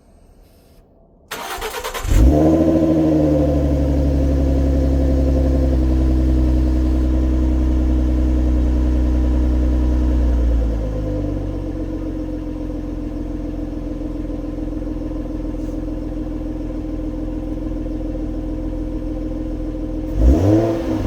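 Ford Mustang 3.7L V6 with a Roush axle-back exhaust being started: a brief crank, then the engine catches with a flare and runs at a fast idle. About ten seconds in, the idle drops to a lower, quieter idle. Near the end there is a quick throttle blip.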